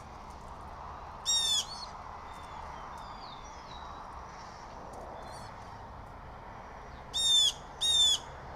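Blue jay giving harsh, short jay calls: one call, then two in quick succession near the end, over faint chirping from other songbirds.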